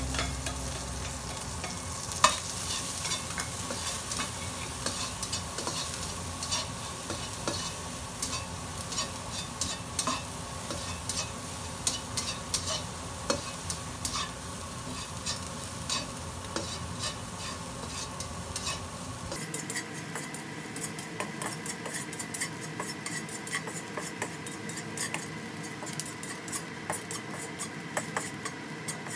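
Oil sizzling in a nonstick wok as small chopped pieces fry, with frequent light taps and scrapes of a spatula stirring them around the pan.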